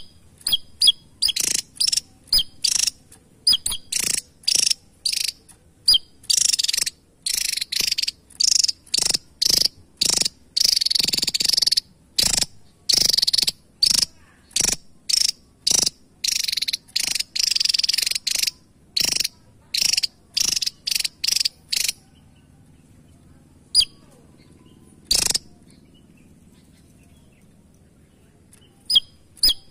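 Javan tesia song: a fast run of short, sharp, high-pitched notes that goes on for about twenty seconds, then breaks off, leaving two lone notes and a few more near the end.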